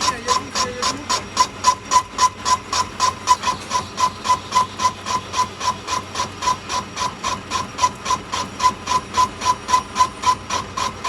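Metal striking metal over and over, about four strikes a second in an even rhythm, each strike ringing with a clear tone.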